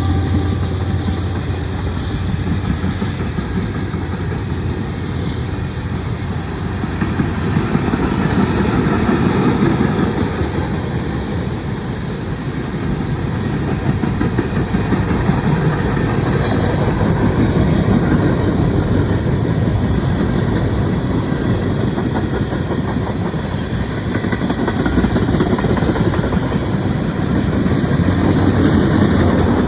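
Mixed freight train's cars rolling past, a steady heavy rumble with the steel wheels clattering over the rails.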